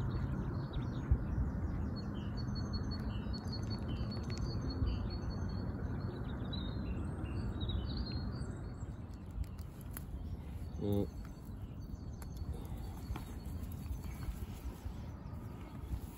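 Small birds chirping and singing over a steady low rumble, the chirps thinning out after about nine seconds. A single short pitched call stands out about two-thirds of the way through.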